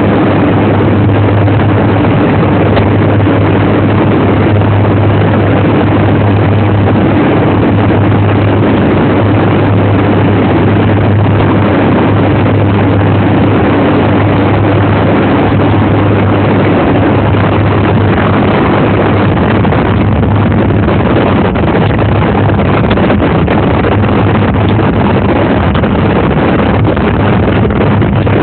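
Loud, steady engine drone with a constant low hum and a rushing noise over it, unbroken throughout; a higher hum in it fades after about 17 seconds.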